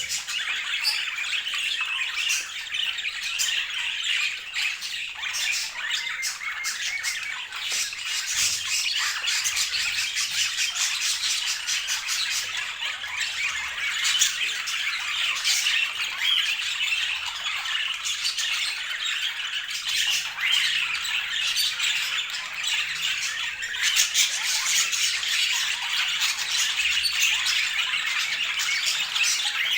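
Budgerigars chattering and chirping without a break, dense warbling with many short clicks mixed in.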